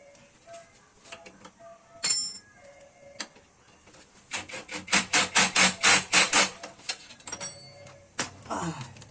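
Hand tools knocking on metal during motorcycle exhaust work. There is one sharp knock about two seconds in, then a quick run of about a dozen strikes at roughly five a second, with scattered small clicks between.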